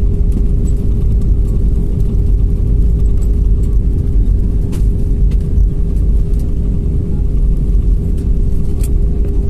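Jet airliner cabin noise during landing: a steady low rumble with a constant hum and a few faint clicks.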